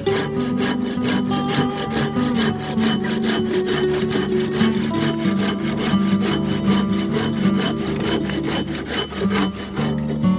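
Silky Japanese pull-stroke handsaw cutting through wood in a steady rhythm of quick, even strokes, with guitar music underneath.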